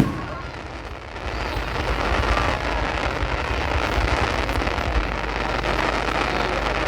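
Fireworks: a sharp bang right at the start, then from about a second in a dense crackling from crackle-effect shells that runs on for several seconds, with low thuds beneath.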